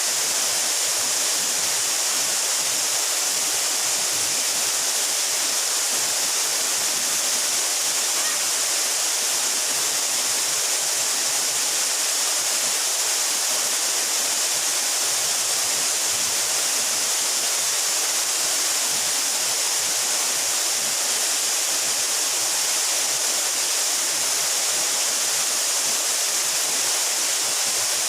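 Waterfall pouring and splashing, a steady, unchanging rush of falling water that is strongest in the high hiss.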